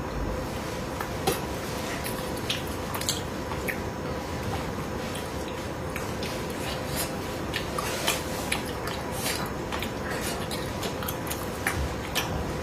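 Close-miked eating of spicy braised fish: irregular small clicks and wet mouth sounds of chewing, with utensils tapping the dish now and then. A faint steady hum runs underneath.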